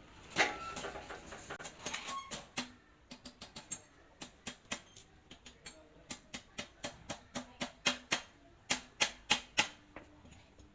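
A run of short, sharp metallic taps and clicks, some with a brief ring, coming irregularly two to four times a second and louder near the end: tools and metal parts being worked during repair of a hand pallet truck's hydraulic pump.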